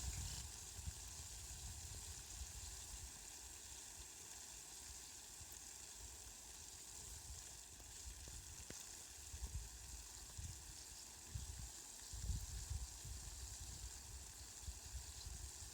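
Steady hiss of falling rain, with low rumbling patches now and then.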